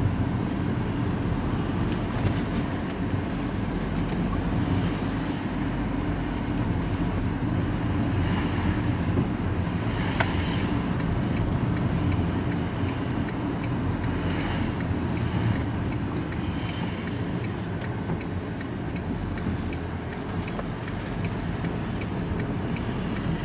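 Engine and road noise inside a vehicle's cab while driving: a steady low rumble, with faint regular ticks in the second half.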